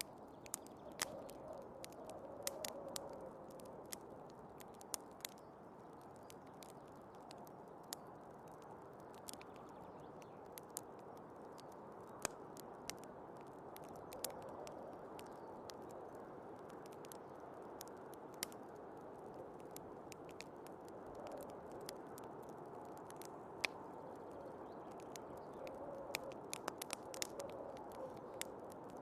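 Wood fire crackling with irregular sharp pops, several bunched near the end, over a steady muffled rush of snowstorm wind.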